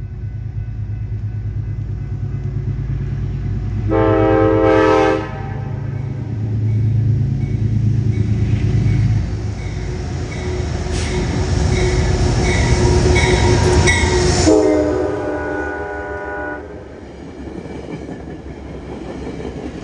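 Metro-North geometry train passing: the locomotive's air horn sounds a short blast about four seconds in and a longer one about fifteen seconds in, over a steady engine rumble and the clatter of wheels on the rails as the train goes by.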